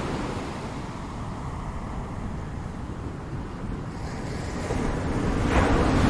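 Ocean surf on a shore: the wash of the last wave dies down to a low rumble, then the next wave builds and breaks with a loud rush about five and a half seconds in.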